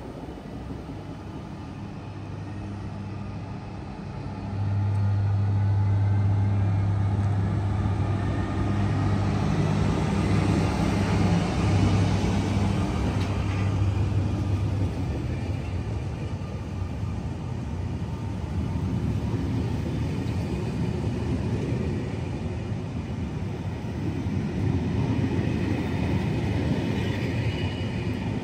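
SNCF Class BB 22200 electric locomotive passing close at low speed, a loud steady hum starting about four seconds in and fading after the middle, faint rising tones above it. Its passenger coaches then roll past with continuous wheel-on-rail noise.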